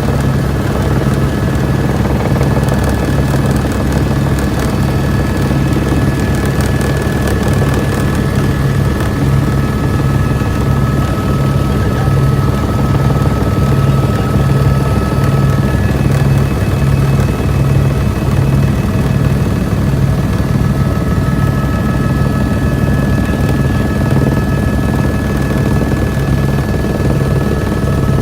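Helicopter in flight: a loud, steady beat from the main rotor, with a steady high whine over it.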